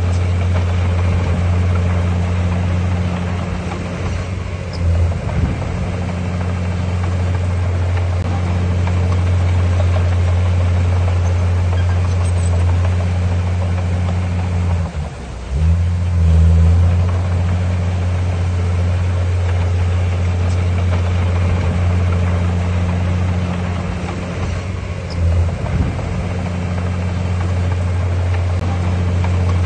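Heavy diesel engine of earthmoving equipment running steadily under work, a low hum that dips and picks up again briefly a few times, most clearly about halfway through.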